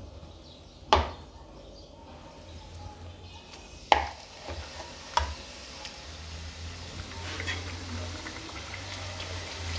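Pieces of namak pare dough dropped by hand into hot oil in an iron kadhai: three sharp clicks in the first five seconds, then a crackling sizzle that builds through the second half as the dough starts to fry.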